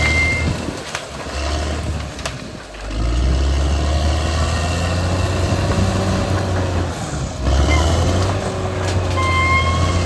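Caterpillar D6R XL bulldozer's diesel engine running under load, with a deep steady drone that dips for a moment and then comes back stronger. A short high steady tone sounds at the start and again near the end.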